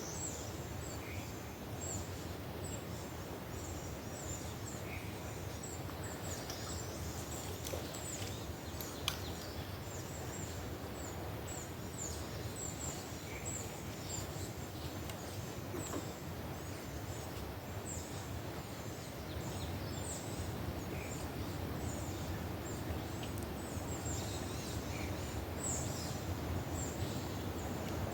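Outdoor riverside ambience: a steady low rush of noise with many short, high bird chirps throughout, and one sharp click about nine seconds in.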